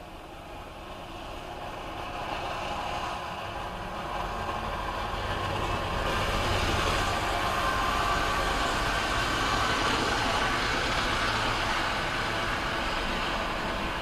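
Norfolk Southern freight train passing at track side: diesel locomotives running and growing steadily louder over the first six seconds or so, then the steady rumble and rattle of freight cars rolling by.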